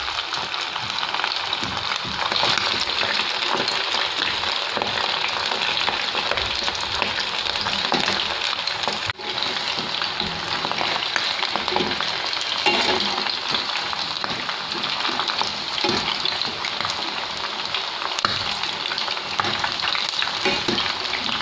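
Marinated chicken pieces deep-frying in hot oil, the oil sizzling steadily. The sizzle breaks off for a moment about nine seconds in.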